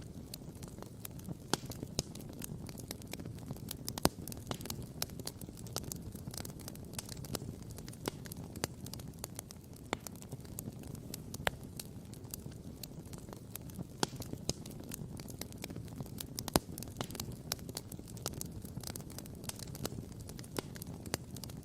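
Wood campfire crackling, with frequent irregular sharp pops and snaps over a steady low rush. A few louder pops stand out, around four seconds in and again near sixteen and a half seconds.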